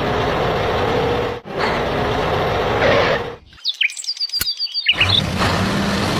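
Steady engine-like running noise of a vehicle, broken off about three and a half seconds in by a short gap filled with high bird-like chirps, after which the running noise comes back.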